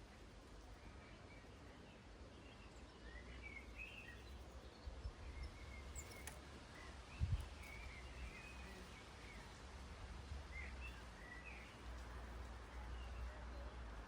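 Small birds chirping faintly in short, scattered calls over a steady low rumble, with one brief thump about seven seconds in.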